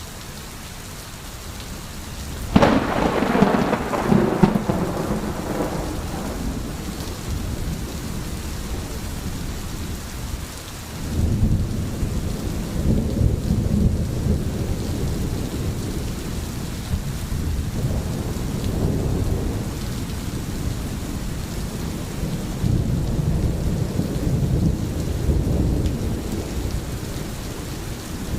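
Steady rain with thunder: a sharp thunderclap about two and a half seconds in that fades out over a few seconds, then long low rolling rumbles of thunder.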